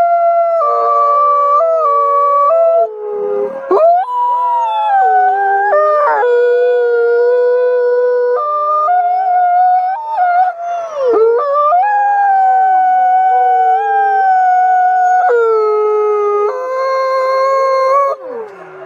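A pack of wolves howling in chorus: several long, overlapping howls held at different pitches, with slides up and down and a falling howl near the end.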